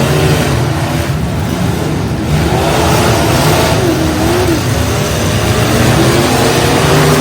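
Demolition-derby truck engines revving, a loud steady drone whose pitch rises and falls.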